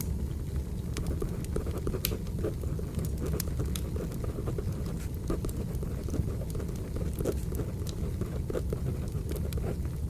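Firewood burning, with irregular sharp crackles and pops over a steady low rumble of the fire. Pencil writing on paper is mixed in as short scratchy strokes.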